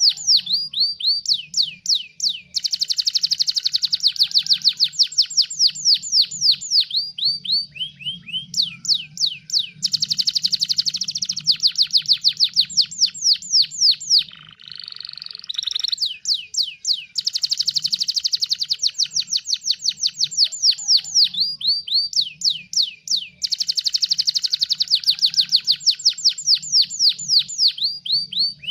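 Domestic canary singing a long run of rapid trills, each a string of quick downward-sweeping notes, some so fast they run together into a continuous rattle, with a short buzzier, lower trill about halfway through. A faint low hum runs beneath the song.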